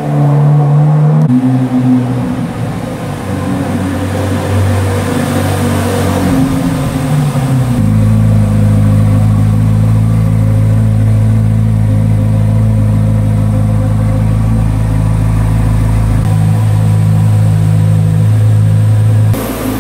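2023 Corvette Z06's 5.5-litre flat-plane-crank V8 running at a steady low idle, a deep even note that jumps to a different pitch abruptly a few times.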